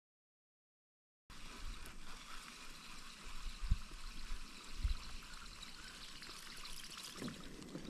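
Silence, then about a second in a steady trickling, lapping water sound sets in, with two low thumps a little past the middle.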